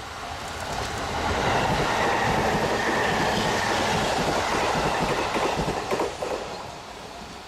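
A train passing close by on the rails, its sound building over the first second or so, holding loud with the rumble and hiss of wheels on track, then a few sharp clacks about six seconds in before it fades away.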